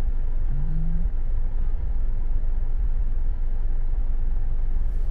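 Steady road and engine rumble of a car driving, heard from inside the cabin, with a short hum from a man's voice about half a second in.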